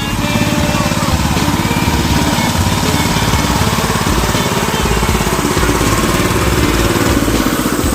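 Honda GX200 single-cylinder four-stroke engine of a homemade go-kart running steadily.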